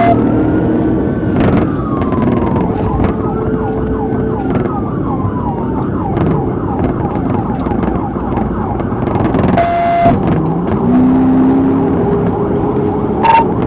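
Police car siren sounding, slow rising and falling wail sweeps that switch to faster yelp sweeps about halfway through, over steady engine and road noise. Two short electronic beeps with a burst of static cut in near the start and again about ten seconds in.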